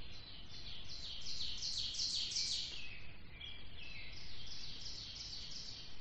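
A songbird singing two runs of rapid, repeated down-slurred high notes, about four a second, each run swelling and then fading, over a low steady background hiss.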